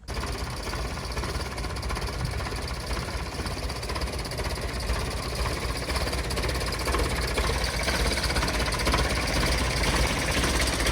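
Old tractor engine, the International A414, running steadily at idle and growing a little louder toward the end.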